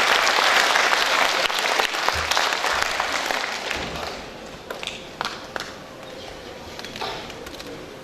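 Concert audience applauding at the end of a song, loud at first and dying away about halfway through, leaving a few scattered claps and knocks.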